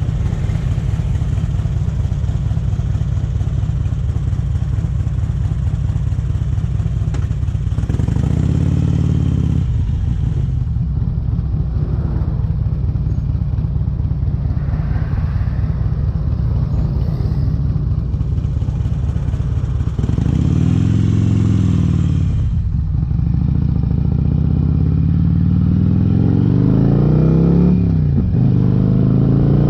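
2008 Harley-Davidson Electra Glide's V-twin engine running through Vance & Hines exhaust pipes on the move: a steady low rumble, with the revs rising and falling about eight seconds in, again around twenty seconds, and a few times near the end.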